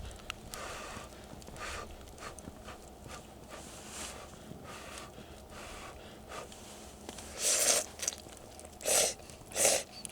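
Slurping ramen noodles: a series of short slurps, faint at first, then several loud ones near the end.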